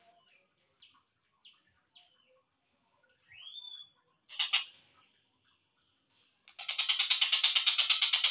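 Slowed-down recording of a collared kingfisher (tengkek buto): a few quiet scattered short calls, a rising whistled note and one loud sharp note. Near the end its rapid, evenly repeated chattering call series starts up again.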